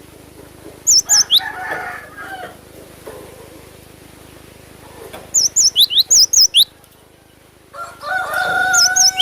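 Gelatik batu (cinereous tit) calling: short runs of rapid, high, sharp notes about a second in and again around five to six and a half seconds. Near the end a rooster crows in one long call.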